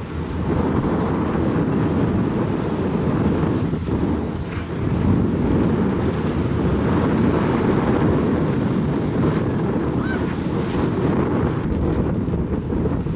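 Strong wind buffeting the microphone: a loud, continuous low rumble that wavers in strength.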